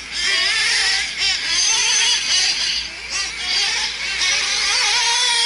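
Several nitro RC truck engines, small two-stroke glow engines, whining at high pitch as the trucks race. The overlapping whines rise and fall with throttle.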